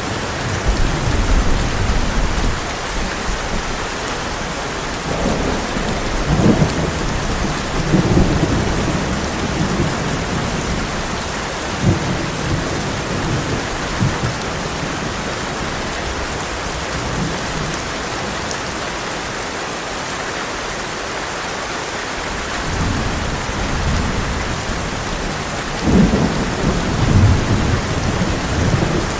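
Heavy rain pouring steadily on a tin roof, with thunder rumbling low several times: a few seconds in, again around the middle, and strongest near the end.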